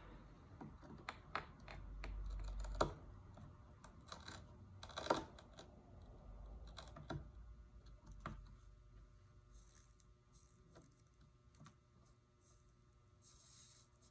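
Sparse light clicks and taps of tools against stained glass and solder while a broken piece is desoldered from a copper-foiled window, the two sharpest about three and five seconds in, thinning out after the middle.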